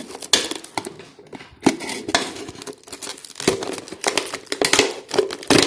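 A plastic bottle being cut open, the plastic crackling and clicking irregularly as the blade works through it.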